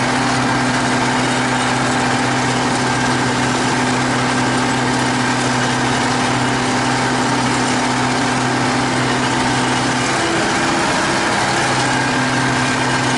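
T-150K tractor's diesel engine running steadily while pulling a cultivator, heard from inside the cab, with a brief wavering in its note about ten seconds in.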